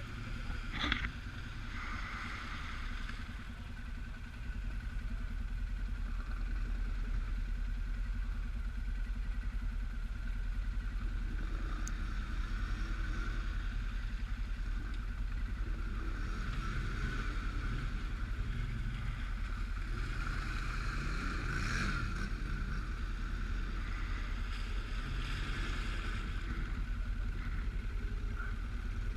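Suzuki King Quad 750 AXI ATV's single-cylinder engine running while riding, its revs rising and falling. It gets louder about four seconds in.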